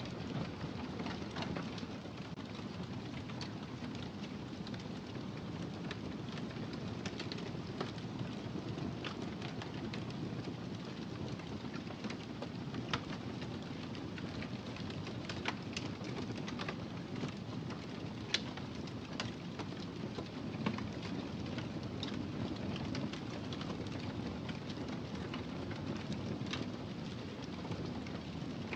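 Wood fire crackling in a fireplace: a steady low rumble of the flames with irregular sharp crackles and a few louder pops.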